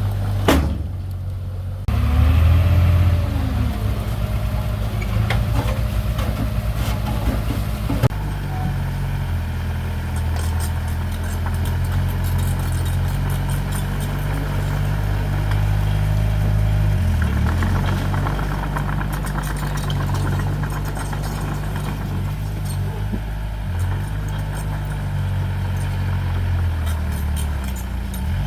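Heavy earthmoving machinery running, a steady low engine drone that swells and eases as the load changes, with a couple of sharp clicks.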